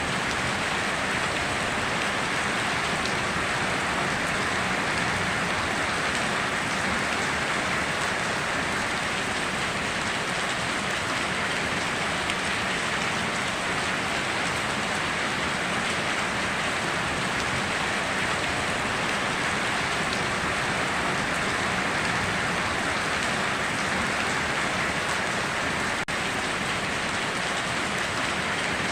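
Steady rain, an even hiss of many drops with no let-up, broken only by a momentary dip about 26 seconds in.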